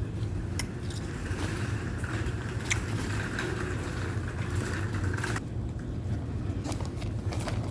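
Steady low hum of laundromat machines, with a few sharp clicks over it and a brief higher hiss in the middle.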